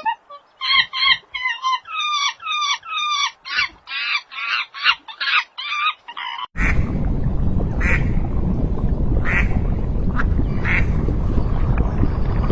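Ducks quacking: first a quick run of short calls, then, after a sudden change about six and a half seconds in, single quacks every second or so over a loud steady rushing noise.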